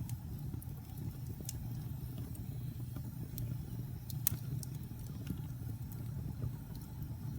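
Fire burning in a fireplace: a steady low rumble of flames with scattered crackles and pops, one sharper pop about four seconds in.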